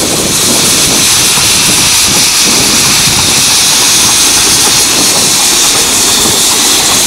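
Miniature railway locomotive giving off a loud, steady hiss, with wind buffeting the microphone.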